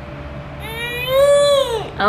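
A baby's voice: one drawn-out high squeal, about a second long, that rises and then falls in pitch.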